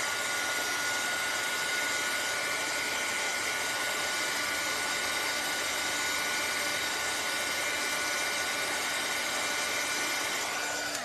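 Handheld dryer blowing steadily to dry wet acrylic paint on wooden ornaments: a constant airy rush with a steady whine, switched off just at the end.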